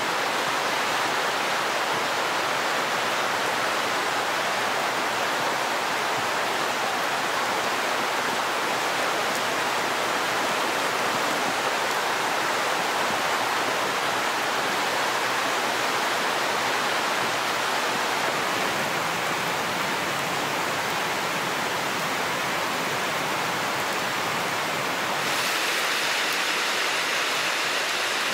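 Steady rain falling, an even hiss with no breaks, turning slightly brighter near the end.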